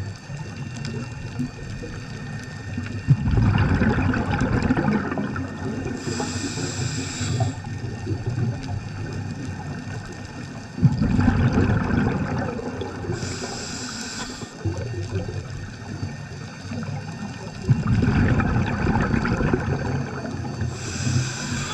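Scuba diver breathing through a regulator, heard underwater: three breaths about seven seconds apart. Each is a rumbling burst of exhaled bubbles lasting a few seconds, followed by a short high hiss from the regulator.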